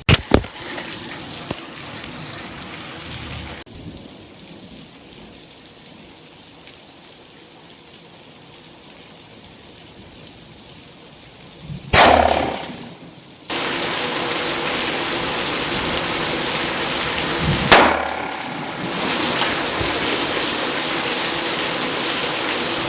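Steady heavy rain hissing. Two loud, sharp rifle shots from a Remington 700 .308, about six seconds apart, each trailing off in a rolling echo.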